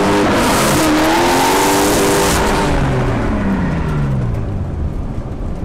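Race car engine heard from inside the car, running at high revs under a loud rush of noise. About three seconds in, the revs fall away and the sound quietens.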